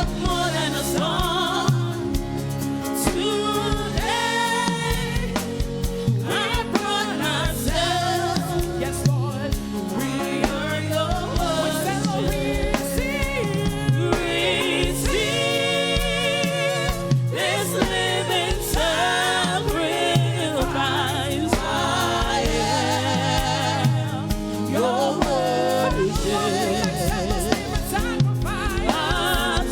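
Gospel praise-and-worship song: voices singing a melody with a wavering vibrato over a band accompaniment with a steady beat.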